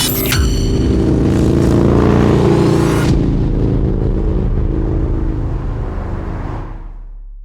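Yamaha V-Star 650's V-twin engine running with a steady low rumble, fading out near the end.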